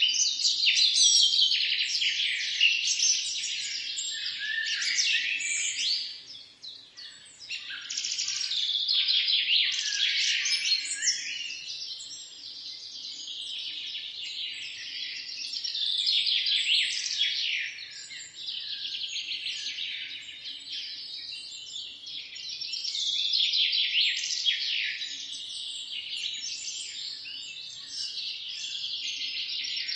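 A dense chorus of many birds chirping and singing at once, with many short, high calls overlapping. There is a brief lull about six seconds in.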